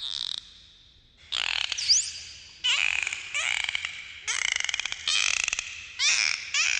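Dolphins calling underwater: a string of buzzy, rapidly pulsed calls, each about half a second long, with a short rising whistle about two seconds in.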